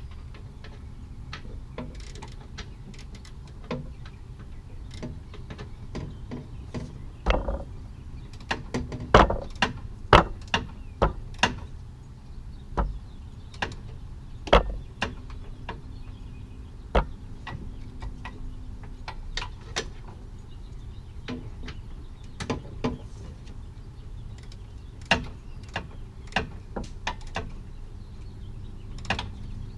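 Irregular clicks, clanks and knocks of hand tools and parts being fitted back onto a car during a radiator reinstallation, loudest and most frequent about a quarter to half of the way in, over a steady low rumble.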